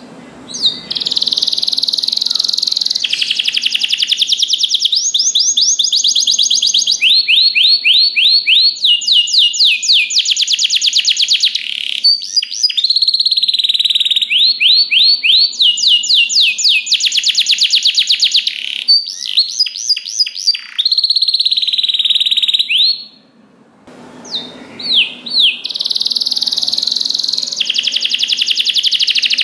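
Domestic canary singing a long, loud song of rapid trills, one fast repeated-note roll after another, with a brief pause about three-quarters of the way through.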